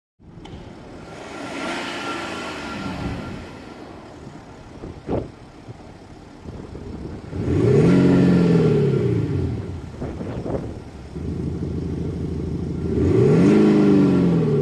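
BMW X5 M50d's straight-six diesel revved through an active sound generator that adds to the engine note: a smaller rev early on, then two long, loud revs that rise and fall, about 7.5 and 13 seconds in. A couple of short sharp clicks come between them.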